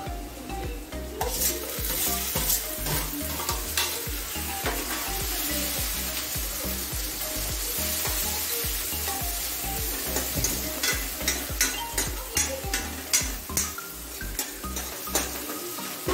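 Tadka frying in a metal kadai on a gas stove: tomatoes sizzling in hot oil while a spoon stirs and scrapes against the pan. The sizzle gets louder about a second in, and the spoon clinks come more often in the last few seconds.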